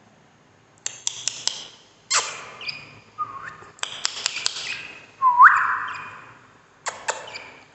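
Budgerigars chirping and chattering: bursts of rapid clicks and short chirps, with a rising whistled call about five seconds in.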